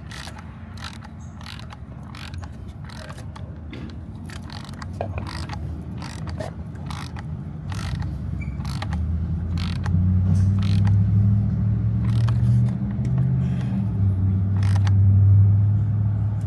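Hand ratchet wrench clicking in short runs while fasteners are tightened on the Jeep 3.6 V6's plastic oil filter housing. A low steady hum builds from about halfway and becomes the loudest sound near the end.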